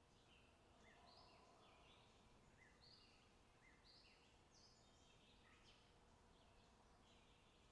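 Faint birdsong: short chirping notes, a few a second.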